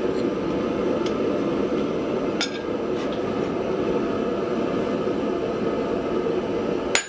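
Steady rushing noise of a running forge, with a few light metallic clinks of steel or tongs, the sharpest one ringing briefly near the end.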